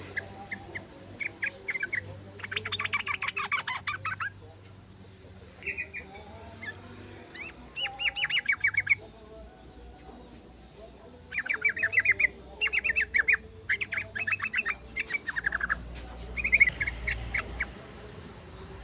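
Yellow-vented bulbul (trucukan) chattering in short, very rapid trills, about eight bursts a second or two apart, over a low background hum.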